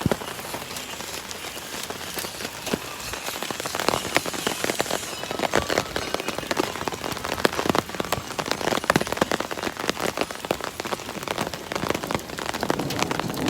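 Hail and rain pelting hard surfaces: a dense patter of sharp ticks and taps over a steady hiss.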